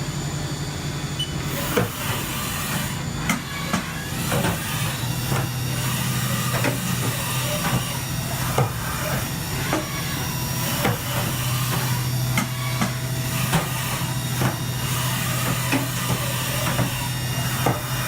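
Haas VF-3D CNC vertical mill running a program: a steady machine hum with hiss, broken by frequent irregular clicks and knocks.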